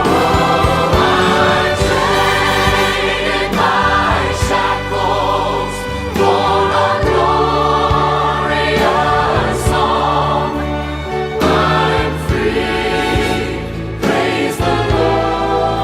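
Choir singing a Christian worship song with instrumental accompaniment.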